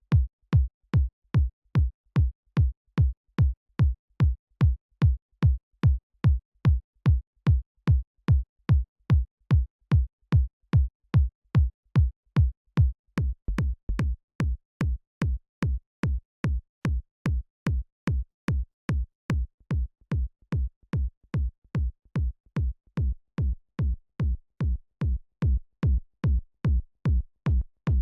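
Synthesized electronic kick drum looping alone at about two hits a second, each with a short click at the front and a pitch that drops fast into a deep boom. A little past halfway the kicks turn quieter and slightly different in tone as the sound is being shaped.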